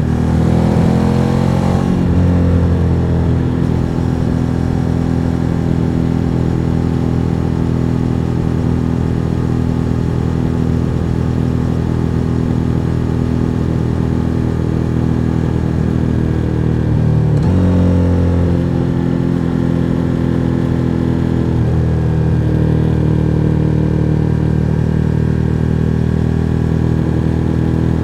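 Suzuki SV1000N's 90-degree V-twin running on the road. The revs climb in the first couple of seconds and drop at a gear change, then it holds a steady cruise. About two-thirds of the way through the revs rise again through another couple of gear changes.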